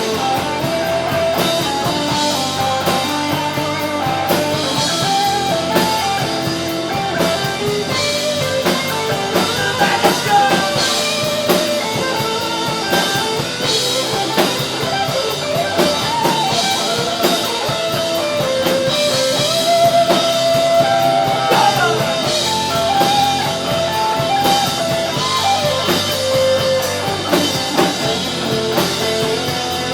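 Live rock band playing an instrumental break with no singing: a guitar carrying a melodic lead line over a drum kit.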